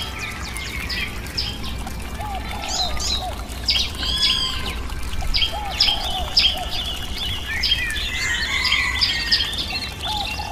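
Birds chirping: a busy mix of short, quick high chirps and trills, with a lower hooked call repeating every couple of seconds.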